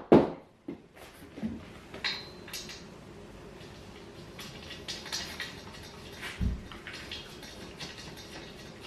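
Scattered light clicks and knocks of objects being handled, with one dull low thump about six and a half seconds in.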